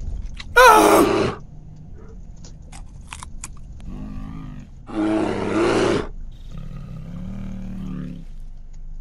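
A bear growling and roaring: one loud roar about half a second in, a second loud roar around five seconds, with lower growls between them and near the end.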